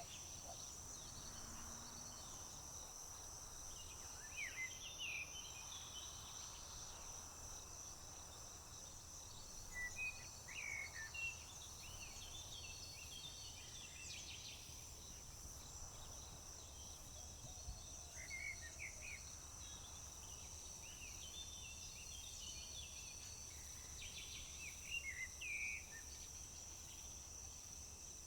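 A steady, high-pitched insect trill from crickets drones without a break. Over it, small songbirds give short bursts of chirping calls four times.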